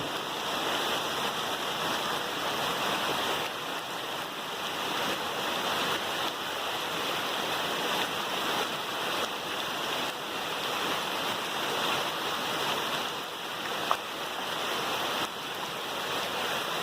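Heavy rain pouring down over fast-running floodwater: a steady rushing hiss that stays even throughout.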